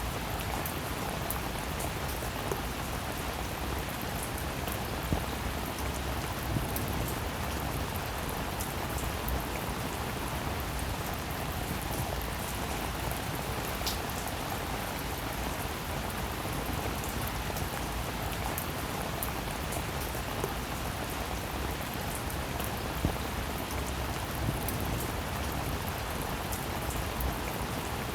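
Steady rain falling: an even hiss of drops hitting a surface, with scattered sharper drop taps and a few louder single hits.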